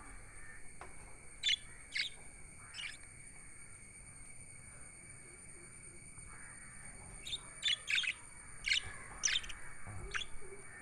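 Budgerigars chirping: three short chirps in the first few seconds, then a quicker run of about six chirps near the end, over a faint steady high whine.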